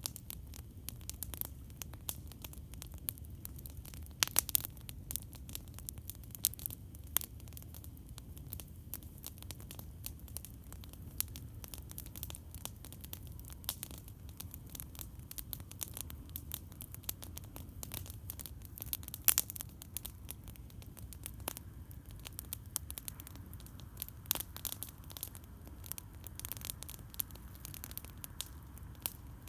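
Campfire crackling: scattered sharp pops and snaps of burning wood over a steady low rumble of flame, with a few louder pops.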